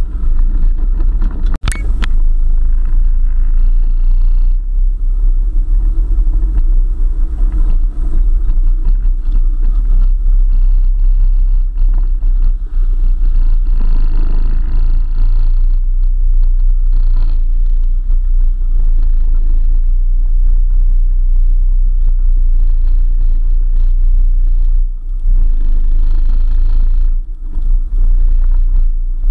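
4x4 vehicle driving off-road, its engine and running gear making a steady low rumble, with a sharp click about two seconds in.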